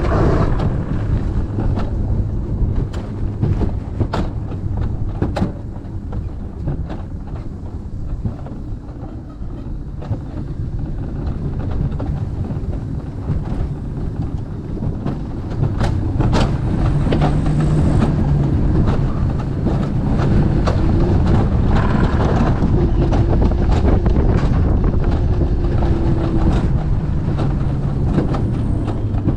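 Alpine coaster sled running down its metal rail track, a continuous rumble with rattling clicks. Wind is buffeting the microphone.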